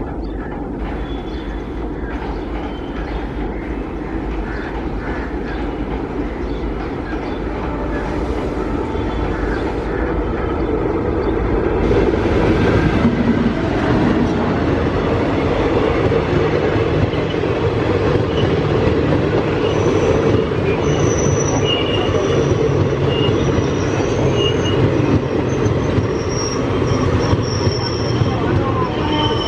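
Indian Railways express train running past, its rumble growing louder about twelve seconds in. From about twenty seconds, high wheel squeals come and go over the rumble.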